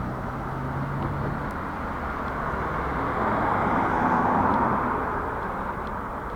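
Road traffic noise with a vehicle going by, loudest about four seconds in and then fading.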